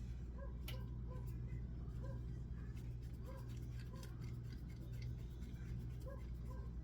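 Quiet kitchen handling sounds: scattered small clicks and light scraping over a steady low hum.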